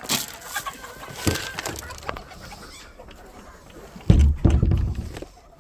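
Chickens clucking amid rustling and clattering, then a loud low rumble about four seconds in that lasts about a second.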